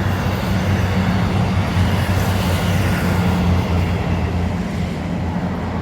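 A heavy diesel engine passing close by, a loud, deep, steady drone over road noise.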